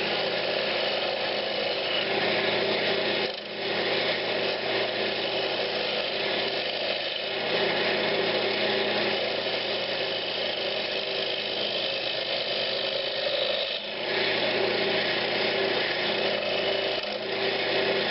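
Wood lathe running while a turning tool cuts a pine cabinet knob: a steady hiss of cutting over the lathe's hum, dipping briefly twice.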